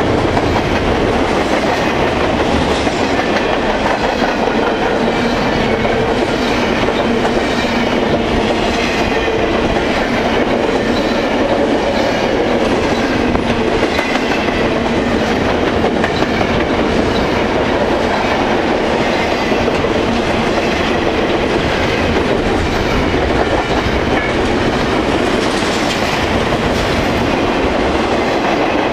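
Freight train rolling steadily past, its cars' wheels clicking over the rail joints.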